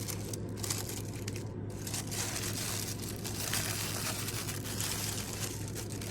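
Packaging rustling and crinkling as a subscription box is opened and its contents handled, with a few small clicks, loudest in the middle stretch.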